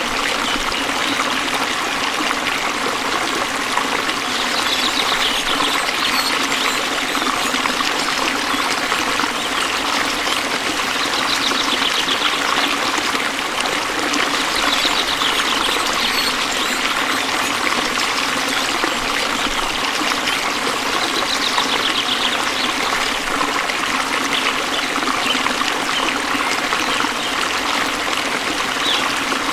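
Waterfall's falling water rushing and splashing steadily.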